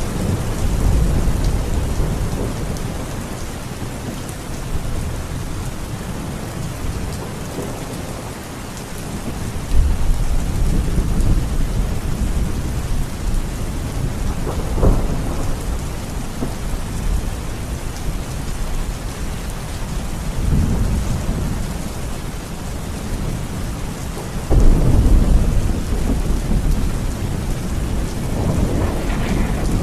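Steady heavy rain, with low rolling rumbles of thunder that swell about ten seconds in and again near twenty-five seconds.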